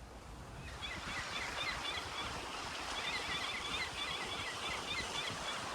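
Water washing steadily, with many quick, high chirps from birds over it starting about a second in.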